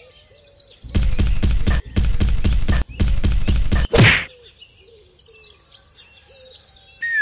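A rapid run of sharp knocks, about five a second for two seconds, then a brief whoosh, over faint bird chirps.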